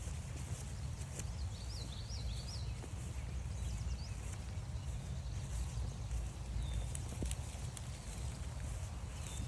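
Footsteps along a forest trail over a steady low rumble. A bird sings a short run of quick rising-and-falling high notes about two seconds in, with a few faint chirps later.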